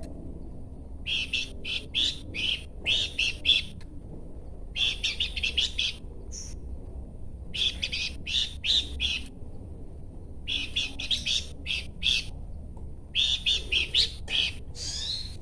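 Horsfield's babbler (pelanduk semak) singing: repeated groups of quick, sharp chirping notes, each group lasting about a second with short pauses between, and a sweeping phrase near the end. A steady low hum runs underneath.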